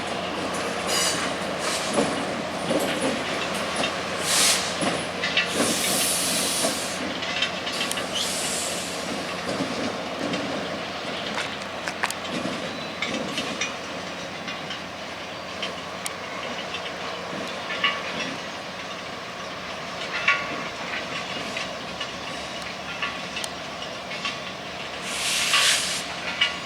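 A Canadian Pacific freight train rolling past: a steady rumble of railcar wheels on the rails, broken several times by short, high-pitched hisses or squeals.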